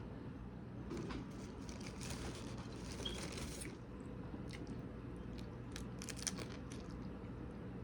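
A person chewing a mouthful of taco close to the microphone: a few seconds of crunching, then a run of sharp mouth clicks.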